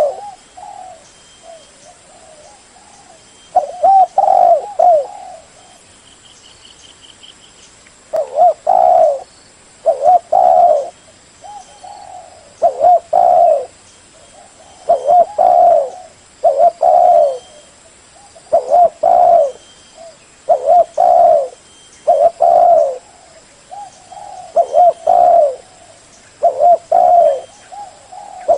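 Spotted dove cooing: phrases of low coos repeated every second or two, after a few seconds' pause near the start. A faint short chirping trill from another bird comes about six seconds in.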